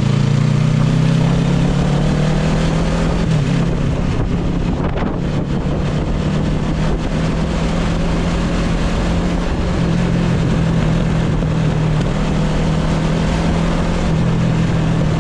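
Motorcycle engine running under way at a steady pitch, with wind rushing over the microphone.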